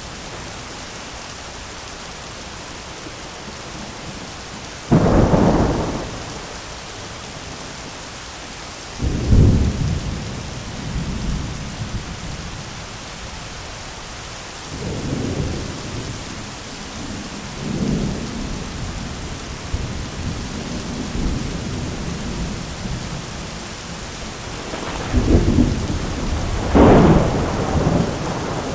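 Thunderstorm: steady heavy rain with repeated thunder. Sharp claps come about five and nine seconds in, softer rumbles follow a little later, and two loud claps come near the end.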